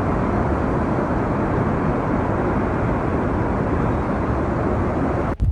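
Rock slide rumbling down a mountainside: a loud, steady, deep roar that cuts off suddenly near the end.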